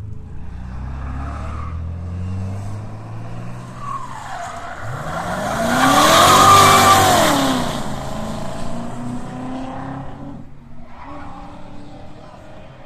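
BMW 540 engine through an MG Motorsport aftermarket exhaust: running low at first, then revved up once about five seconds in, held at the top for a moment with a loud exhaust rush, and dropping back to a lower, steadier note.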